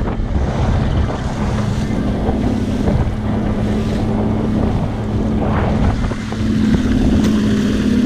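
Motorboat engine running steadily with a low hum, with wind rushing across the microphone and water noise.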